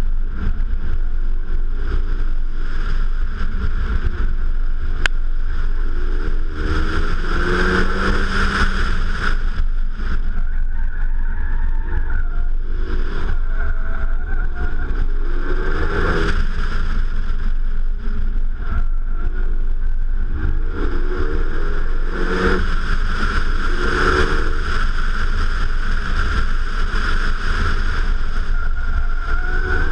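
Renault Mégane RS 265 Trophy's turbocharged 2.0-litre four-cylinder engine on a hard track lap, heard from outside the car, its note climbing several times as it accelerates. Wind rumbles steadily over the exterior-mounted microphone.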